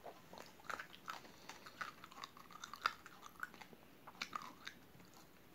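A person chewing a mouthful of raw uncooked rice grains with chewy jelly: soft, irregular crunching as the hard grains crack between the teeth.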